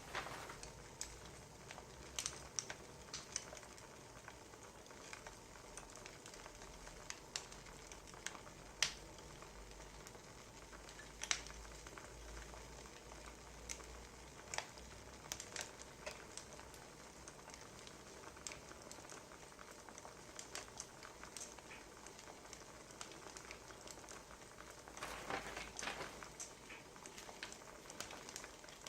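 Wood fire crackling, with sharp pops at irregular moments over a low hiss, and a brief denser run of crackles about 25 seconds in.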